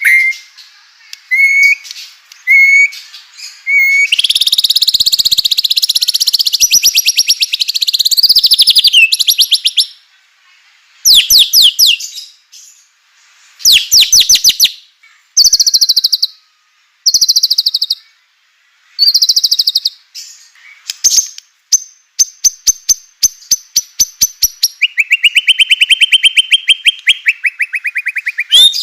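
White-rumped shama (murai batu) singing. A few short whistled notes give way to long stretches of very rapid, rattling trills and crackling 'kretekan' phrases. A run of quick clicking notes follows, then a long, lower rapid trill near the end.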